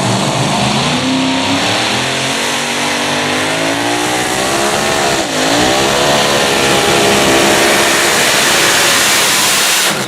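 Pulling tractor's engine running at full throttle under load, its pitch dipping about halfway through and climbing again.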